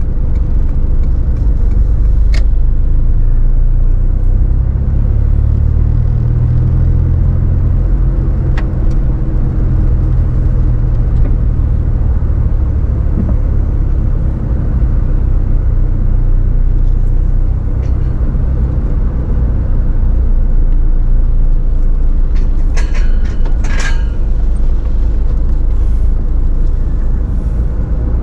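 Toyota AE86 Sprinter Trueno's 4A-GE twin-cam four-cylinder engine and road noise heard from inside the cabin while driving slowly, a steady low drone whose pitch briefly rises and falls. Near the end there is a short cluster of clicks and rattles.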